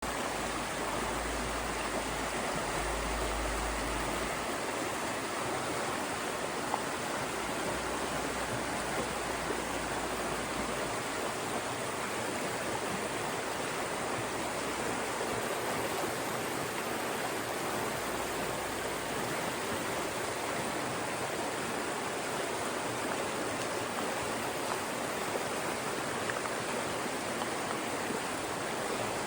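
Fast-moving mountain stream rushing through narrow channels between rocks: a steady, even rush of water.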